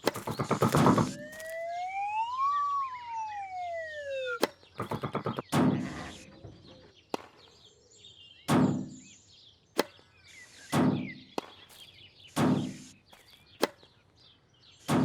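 Cartoon sound effects of a tennis rally. A rapid rattle comes first, then a whistle glides up and back down as the served ball flies and ends in a sharp crack. After that, hits come about every two seconds, with quick sharp ticks between them.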